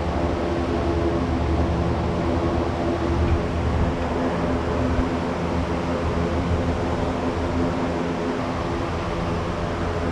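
A steady mechanical drone with an even hiss over it, running without change.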